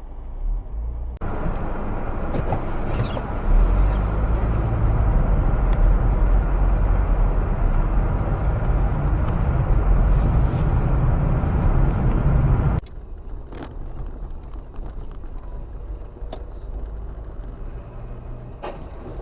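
Car driving noise heard from inside the vehicle: a steady rumble of engine and road noise that cuts off suddenly about 13 seconds in, giving way to a quieter drive with a few light clicks.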